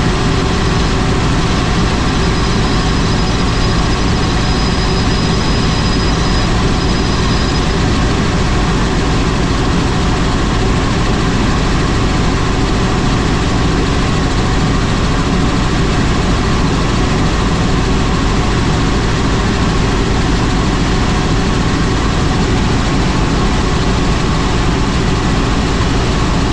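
Helicopter in flight: steady, loud engine and rotor noise that doesn't change, with a faint high tone over it for the first several seconds.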